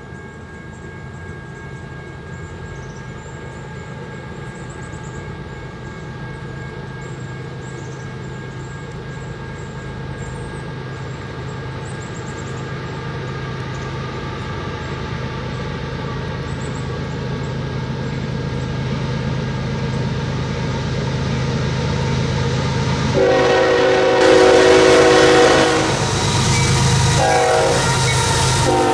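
Union Pacific diesel locomotives approaching at the head of a grain train, their low engine rumble growing steadily louder. About 23 seconds in the air horn sounds a long blast, then starts another near the end.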